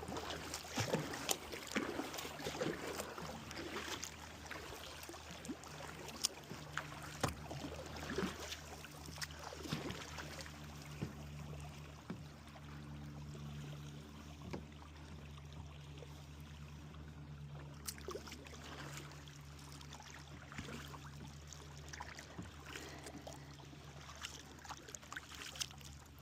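Kayak paddle strokes dipping and splashing in river water, with water trickling off the blades, frequent at first and sparser after about ten seconds, over a steady low hum.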